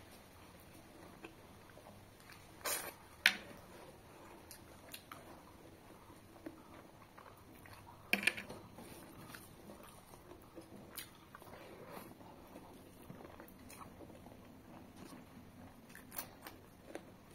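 Close-up eating sounds of mutton curry and rice eaten by hand: quiet chewing and mouth noises, broken by a few sharp crunches or clicks, the loudest about three seconds in and about eight seconds in.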